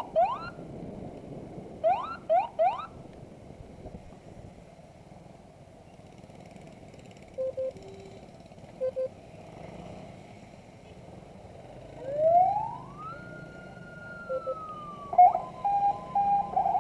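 Multi-tone motorcycle escort siren: two short bursts of quick rising chirps near the start, then a wail that climbs and holds about twelve seconds in, switching to rapid chirping near the end. A steady low noise lies underneath between the siren bursts.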